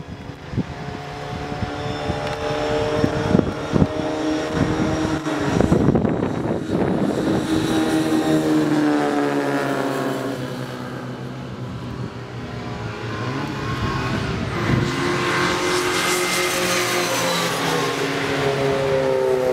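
Classic Mini Cooper race cars' four-cylinder engines at high revs passing on a circuit, their pitch rising as they come on and falling away as they go by, twice. Irregular knocks or buffeting are mixed in during the first few seconds.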